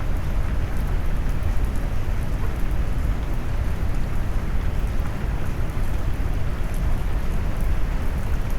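Steady rain noise mixed low and deep: a dense, even rumble of rain with most of its weight in the bass, a soft hiss above it and faint drop ticks.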